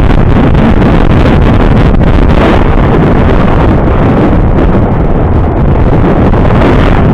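Loud, steady wind buffeting the microphone of a moving vehicle, a dense rumble with no let-up.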